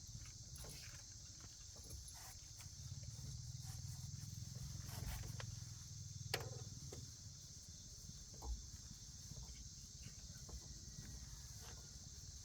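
Faint evening insect chorus, a steady high-pitched trill of crickets, over a low rumble, with a few scattered small clicks and knocks, the sharpest about six seconds in.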